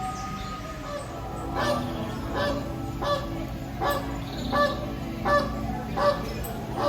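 Flamingos honking: a run of about eight short, goose-like honks at an even pace, roughly one every 0.7 seconds, starting about a second and a half in.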